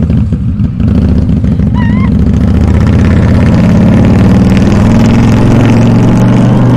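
Harley-Davidson V-twin motorcycle exhaust running loud, its pitch climbing as it revs up from about three to five seconds in.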